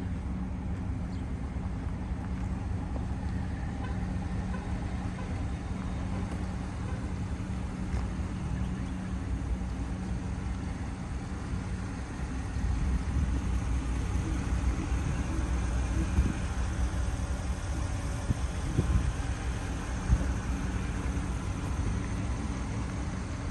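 Pickup truck engine idling steadily, a low, even hum.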